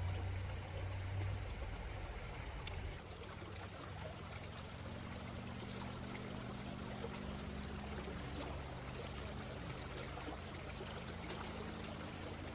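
Water trickling steadily, with a low hum underneath and a few faint clicks.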